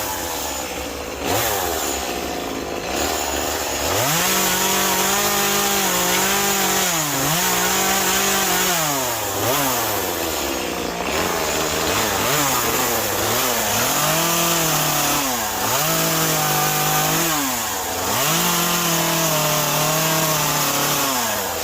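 Gas chainsaw carving into a soaking wet Western Red Cedar stump, its engine revving up and dropping back many times as the throttle is squeezed and released, with a few longer held runs under cut.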